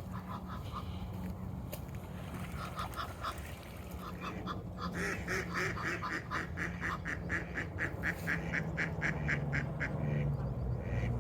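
Ducks quacking: a few short calls, then a fast run of quacks at about four a second that grows louder, over a steady low hum.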